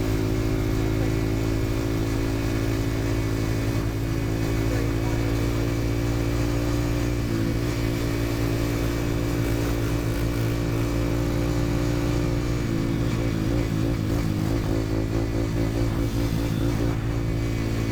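Dirt bike engine running at a steady, even pitch while riding, wavering slightly about thirteen seconds in.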